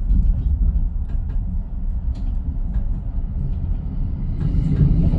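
Commuter train running on the rails, heard from inside the rear car: a steady low rumble with a few faint wheel clicks on the track.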